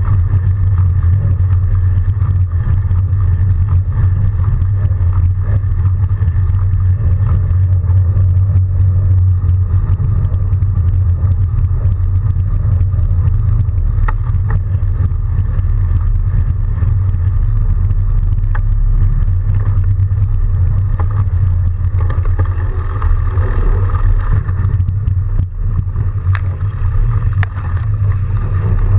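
Steady low rumble of wind and road noise on the microphone while riding a fat bike through snow, with a few faint clicks and ticks near the end.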